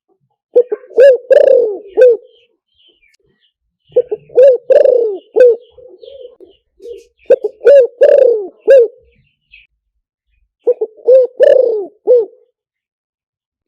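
Spotted dove cooing: four phrases spaced about three to four seconds apart, each a quick run of short coos around one longer, downward-sliding coo.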